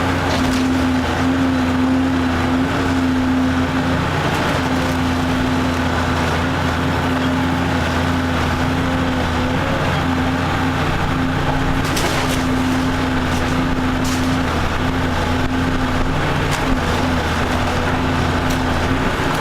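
Diesel engine of a demolition excavator running steadily under load while it tears down a wooden house, with a few sharp cracks of breaking wood about two-thirds of the way through and near the end.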